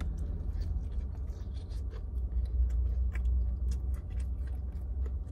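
A person biting into and chewing a sauce-dipped chicken nugget close to the microphone: many soft, irregular mouth clicks and smacks over a low steady rumble.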